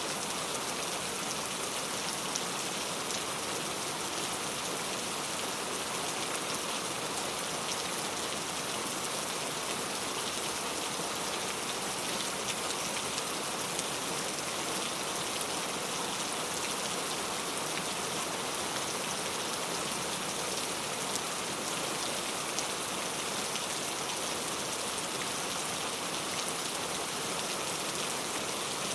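Heavy rain falling steadily on street surfaces, a dense even hiss with fine pattering of drops.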